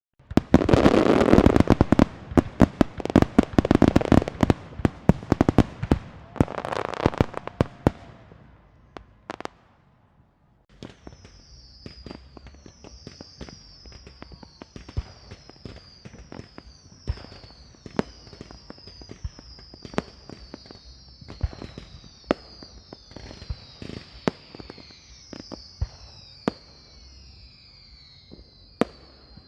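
Fireworks and firecrackers: a dense, loud barrage of rapid bangs and crackling for the first several seconds, then a brief lull. After that come scattered pops under a string of high whistling fireworks, one whistle after another.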